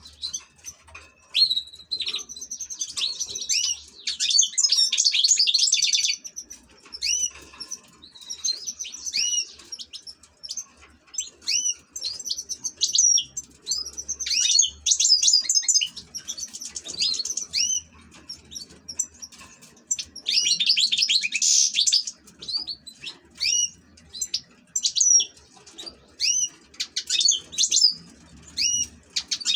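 European goldfinch singing: quick runs of high twittering chirps and trills in bursts, broken by short pauses.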